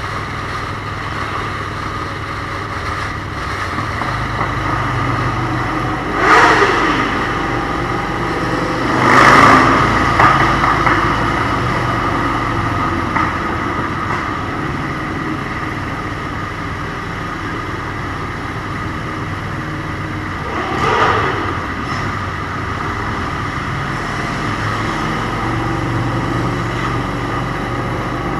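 A motorcycle engine running steadily at cruising speed with wind noise, as on a group ride, while other vehicles pass close by in three brief swells with a falling pitch, about 6, 9 and 21 seconds in.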